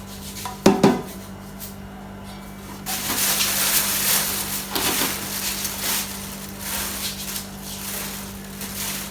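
A cup of flour being scooped and tipped into a mixing bowl: a knock of the cup just under a second in, then a rustling hiss from about three seconds in as the flour is scooped and poured.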